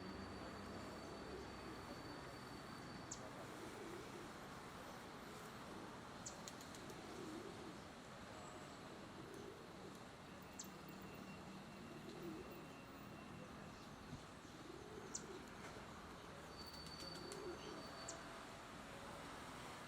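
Faint bird cooing, soft low calls repeating every couple of seconds over a steady background hiss, with a few light clicks.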